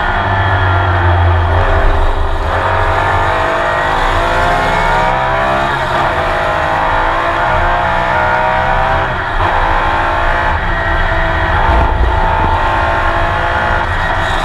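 Porsche 911 race car's flat-six engine at full throttle, heard from on board. It revs up and drops in pitch several times as the driver shifts gears and lifts for corners, with faint tyre squeal.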